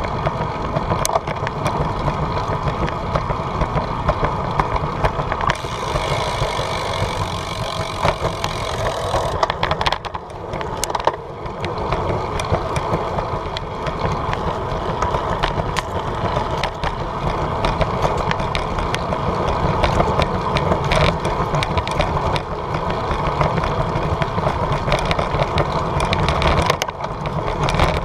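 Steady wind and road noise of a bicycle being ridden, on a GoPro's microphone, with frequent small rattling clicks. It dips briefly about ten seconds in.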